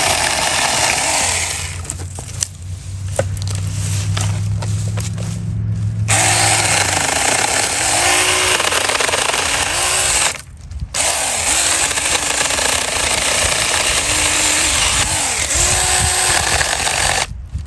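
Saker mini cordless electric chainsaw cutting through a thick branch, the chain rasping loudly through the wood. It eases off to a steady low motor hum for a few seconds near the start, with a short break about ten seconds in. The small saw is working at its limit on wood thicker than the small branches it is made for.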